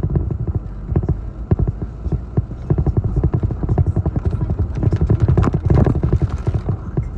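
Strong hurricane wind buffeting the microphone in an uneven rumble, with rapid, irregular knocks and clatter.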